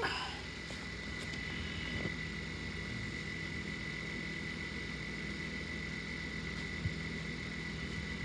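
Refrigerator compressor running with a steady hum, working again on its replacement start relay. A thin, steady high whine sits over it from about a second in.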